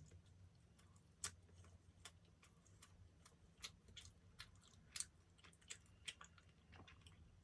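Quiet, close-up chewing of soft pastry: a string of irregular sharp mouth clicks and crackles.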